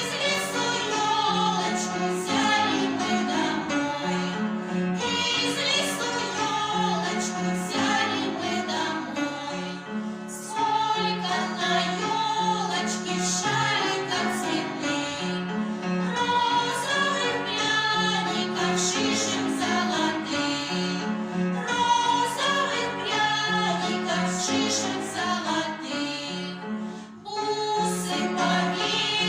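A song with group singing over an instrumental backing, dipping briefly about ten seconds in and again near the end.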